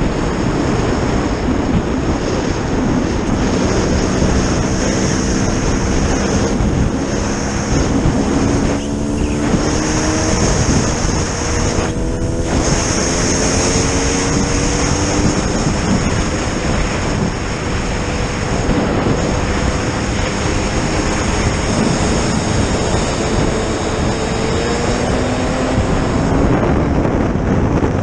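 Heavy wind rush on the microphone over an engine running at speed during a ride across ice. The engine's pitch climbs slowly, levels off, then eases and climbs again.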